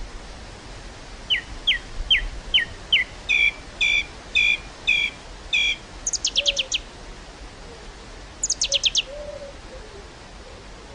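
A songbird singing. It gives a run of five clear, down-slurred notes, then six paired notes, then two fast descending trills about two seconds apart, over a faint steady outdoor hiss.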